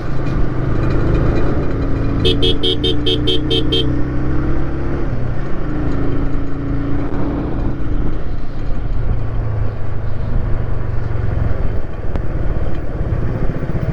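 Motorcycle, a KTM 390 Adventure single-cylinder, running along the road, its engine note rising and falling. About two seconds in there is a quick series of about eight short beeps lasting under two seconds.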